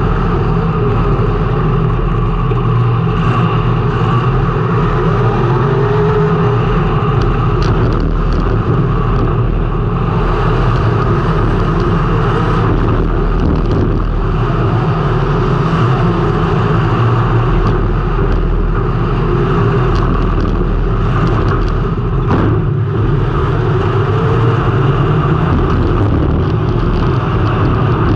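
Race car engine running hard under sustained throttle, picked up by a camera mounted on the car. It stays loud and steady throughout, with only small rises and falls in pitch.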